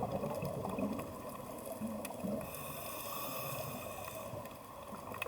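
Soft, washing water sound with no voices, with faint steady high tones for about two seconds around the middle.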